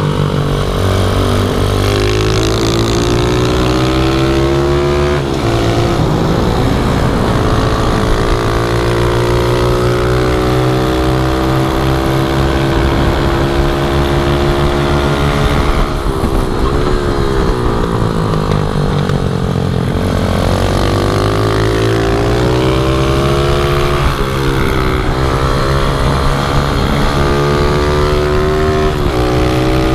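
Pitbike engine running hard, its pitch rising and falling repeatedly as it revs up and drops back through the gears or into corners.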